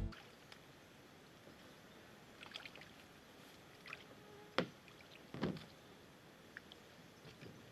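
Quiet water sounds around a small boat: a few scattered knocks and splashes, the loudest about four and a half seconds in, with another about a second later.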